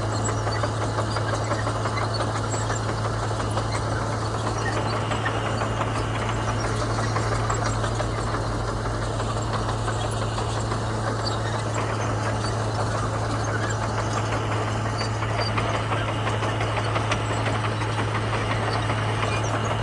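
Komatsu bulldozer's diesel engine running at a steady, even pitch with a strong low hum, unchanged throughout.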